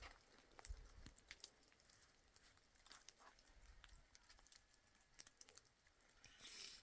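Near silence with a few faint, scattered clicks and rustles.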